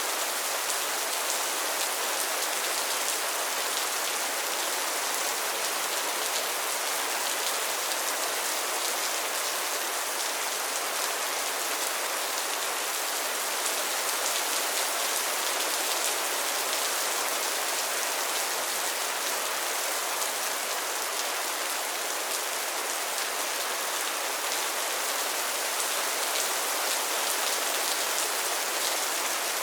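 Steady rain falling on a pond and its lily pads, an even hiss of many small drop patters.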